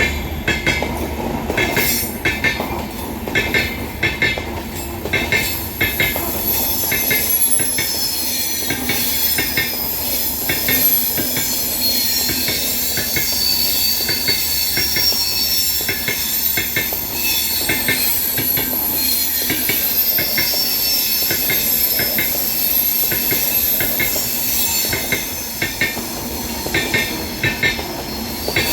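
A train running past on a curve: its wheels clack in a steady rhythm over the rail joints, and from a few seconds in the wheels squeal on the curve with several thin, high, held tones.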